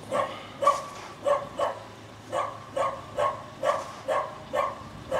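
A dog barking over and over in short barks, about two a second, with a brief gap about two seconds in.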